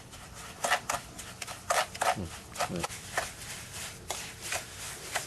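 Irregular gritty scraping and clicking of a tool stirring silicate into asphalt sealer, mixing it to a thick paste in a container.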